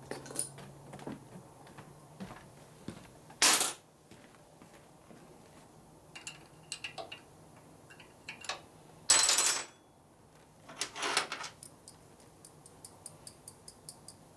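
Hand tools working on a metal oil line fitting: scattered metallic clinks and knocks, three short loud rushing noises (the loudest about nine seconds in), and a rapid run of ratchet-like clicks near the end.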